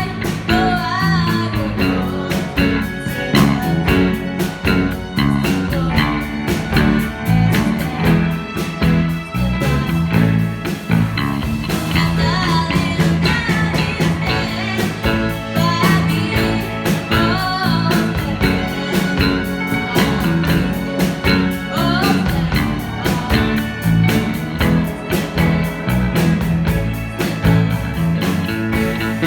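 Rock band music: a singer over electric guitar, bass and drums keeping a steady beat.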